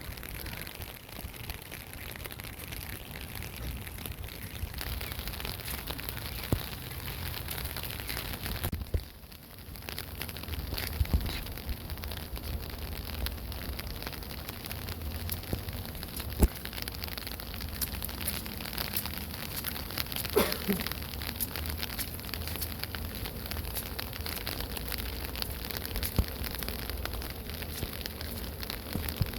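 Steady rain falling, with many small drop ticks close by and a few louder knocks.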